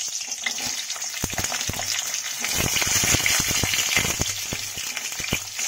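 Stuffed green capsicums sizzling in a little hot oil in a steel kadai as they are set in one by one. A run of sharp knocks comes as the peppers are put down against the pan.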